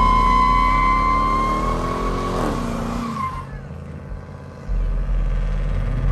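Car at high revs with a long, steady tire squeal, typical of a burnout. The squeal and revs cut off a little over three seconds in, and a deep engine rumble comes back near the end.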